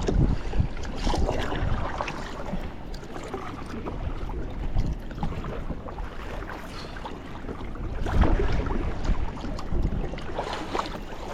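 Kayak paddling: paddle blades dipping and splashing in the water, with wind rumbling on the microphone, strongest near the start and again about eight seconds in.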